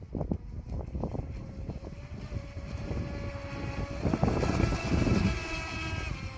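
Electric whine of an RC scale boat's 1620KV brushless motor running on the water. Its pitch steps up about two seconds in and it grows louder about four seconds in with a higher rush of water or wind, then the pitch drops just before the end as the throttle eases, over a low rushing noise.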